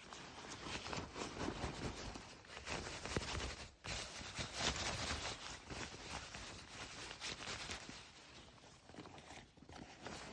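Footsteps crunching and rustling through dry leaves and undergrowth, an irregular run of crackles and scrapes with a brief pause about four seconds in.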